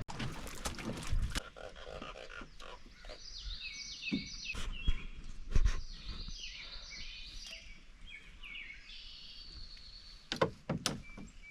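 A songbird sings a run of quick, repeated chirping phrases. Scattered sharp knocks and clatter come with it, in a cluster at the start and louder again near the end.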